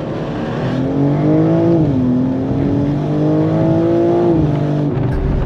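BMW M2 G87's twin-turbo inline six accelerating through the gears. The engine note rises, drops sharply at an upshift about two seconds in, climbs again, then falls away as the throttle eases near the end.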